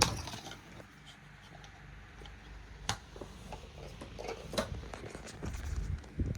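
Fine Elements 9-inch desk fan running with a steady airy whir, with a sharp click at the start and a few more clicks and knocks about three and four and a half seconds in.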